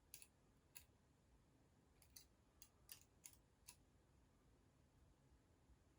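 Near silence broken by faint, sharp clicks of small metal construction-set parts being handled, about eight of them in the first four seconds.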